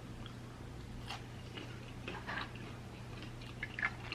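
Faint, scattered wet clicks and smacks of someone chewing a fried chicken wing close to the microphone, over a steady low hum.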